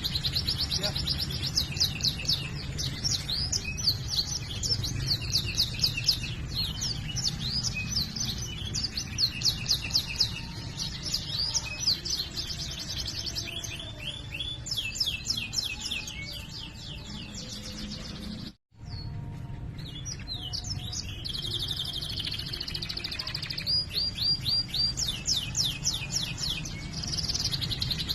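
Domestic canary singing in fast rolling trills: long runs of rapid, repeated high chirps, broken by short pauses. There is a steady low hum underneath, and the audio drops out briefly about two-thirds of the way through.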